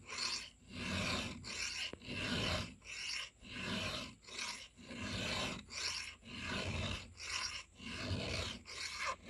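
Round file rasping across the cutter teeth of a chainsaw chain during hand sharpening, in steady, even strokes about one and a half a second.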